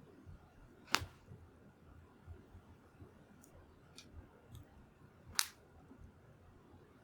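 Wood fire crackling softly, with scattered faint ticks and two sharp pops, one about a second in and another some four seconds later.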